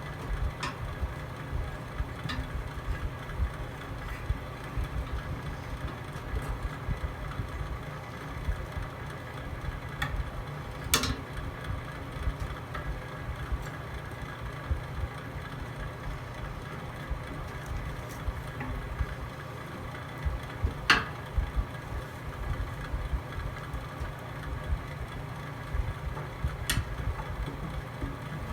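Wood fire burning in a fireplace: a steady low rumble with occasional sharp pops and crackles, the loudest about 11 and 21 seconds in.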